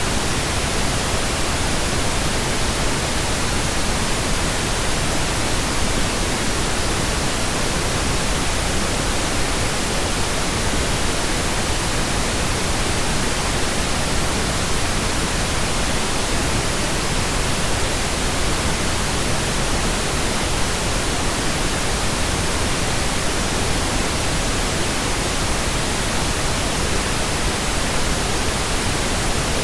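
Steady pink noise generated in Audacity: an even, constant hiss with no change in level.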